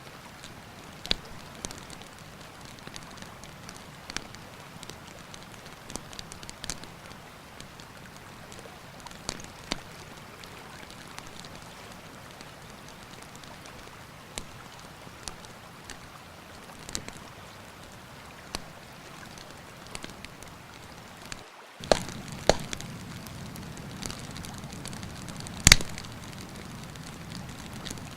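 Wood campfire crackling with scattered sharp snaps and pops over the steady rush of a mountain river. About three-quarters of the way through the sound cuts out for a moment, then returns slightly louder with the biggest pops.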